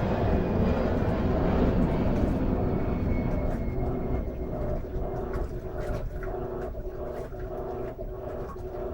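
Electrolux LM13Q top-load washing machine in its wash cycle. A loud rushing wash sound fades over the first few seconds, then the agitator motor hums in short back-and-forth strokes, about two a second.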